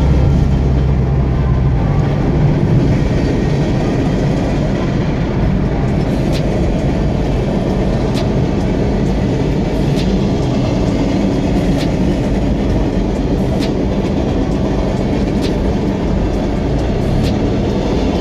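Freight train rolling past, a steady rumble and wheel clatter heard from inside a car over the car's own road noise, with a sharp click about every two seconds.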